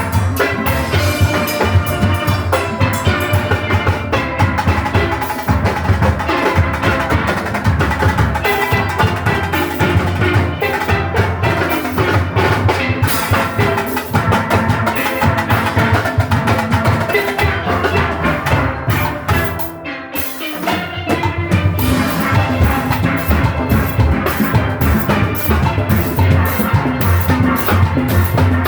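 A youth steel orchestra playing live: many steelpans ringing out a fast melody over a driving drum-kit and percussion rhythm, with a brief drop in volume about twenty seconds in before the full band comes back.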